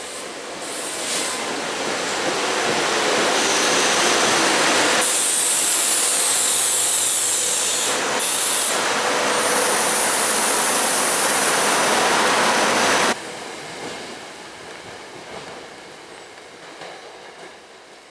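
SEPTA Silverliner IV electric multiple-unit train arriving and running close past on the platform track: a rising rumble of wheels on the rails that grows into a loud rush with a high hiss. About 13 seconds in the sound drops suddenly to a fainter train rumble that fades away.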